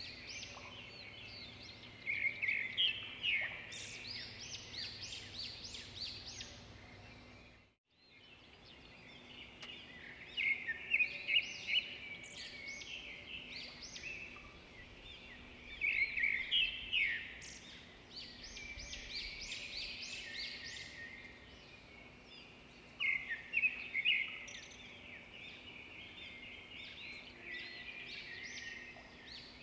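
Birds chirping: bursts of quick, high chirps every few seconds over a faint steady background. About eight seconds in, the sound cuts out completely for a moment.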